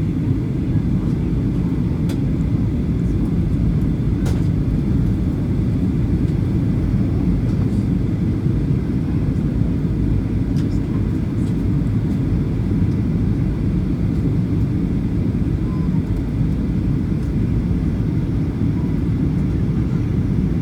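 Steady low roar of a Boeing 737-800 in flight, engine and airflow noise heard from inside the passenger cabin, with a faint high whine.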